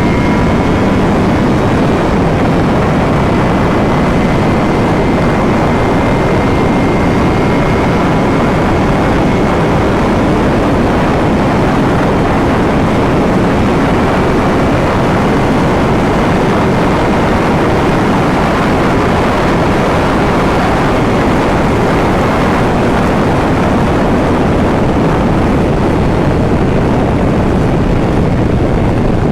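Ducati Panigale V4 superbike at high speed: loud, steady rush of wind over the microphone, with the V4 engine's note faintly beneath it.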